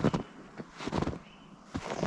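Footsteps crunching through deep snow, about one step a second.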